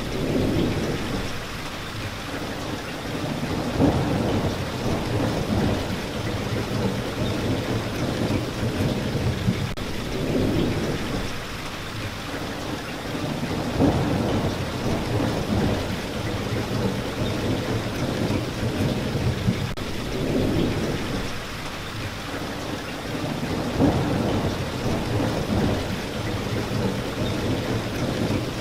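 Steady rain falling, with low rumbles that swell and fade every few seconds.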